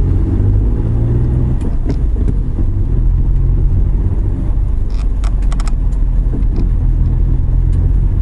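Suzuki Every Wagon kei van on the move, its engine and road noise making a steady low drone. A quick run of small clicks comes about five seconds in.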